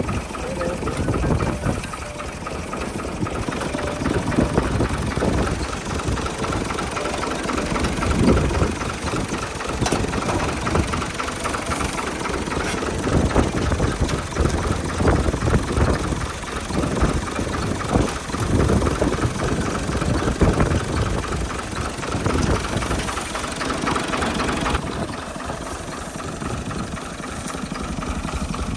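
A 65 hp tractor's diesel engine running with a reaper, its sound surging and easing irregularly; the higher part of the sound thins out about 25 seconds in.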